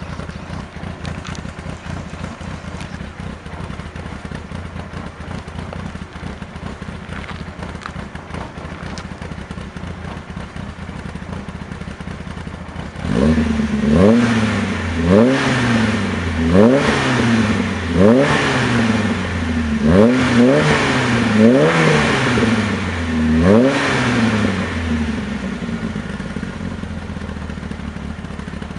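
VW Mk1 Golf engine idling steadily, then revved in a run of quick throttle blips, each rising and falling in pitch, for about twelve seconds before settling back to idle.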